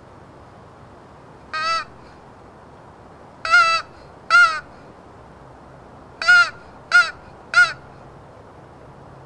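Flambeau Squeeze & Play crow call, its internal reed sounded by squeezing, giving six short caws: one, then a pair, then three in quick succession.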